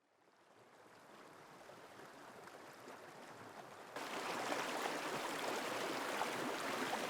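River water flowing: a steady rush that fades in from silence and gets suddenly louder about four seconds in.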